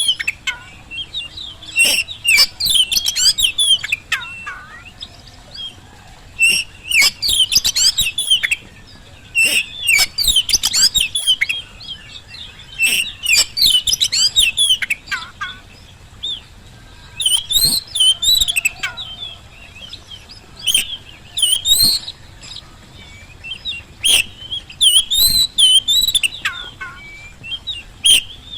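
Oriental magpie-robin (kacer) in full song, loud bursts of rapid, varied whistled phrases, each a second or two long, with short pauses between. It is the kind of lively song used as a lure to set other magpie-robins singing.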